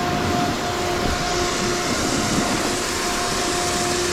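Steady rushing noise of wind on the microphone and snowboards sliding and scraping over snow on a run downhill, with a faint on-and-off hum underneath.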